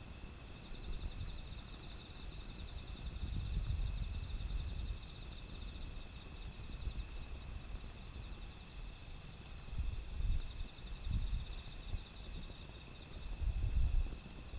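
Insects trilling steadily in high, finely pulsed tones, over irregular low rumbling gusts of wind on the microphone that grow stronger near the end.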